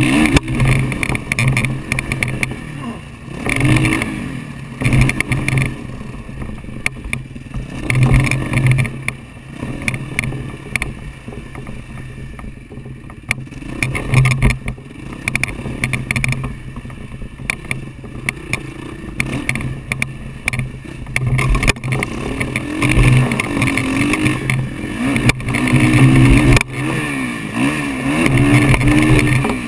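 Motocross bike engine revving up and down repeatedly on a dirt track, heard from a helmet-mounted camera. It eases off around the middle and is loudest near the end.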